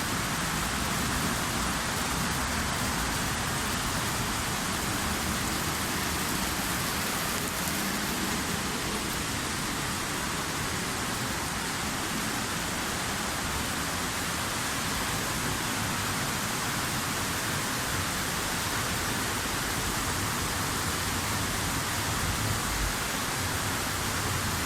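Heavy storm rain pouring down in a steady, even downpour with no letup.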